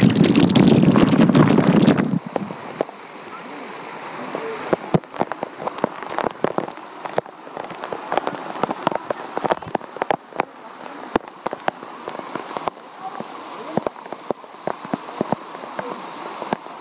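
Waterfall water splashing and pattering, a steady hiss dotted with many sharp drips and splashes of drops landing. For the first two seconds a loud low rumble of wind on the microphone covers it.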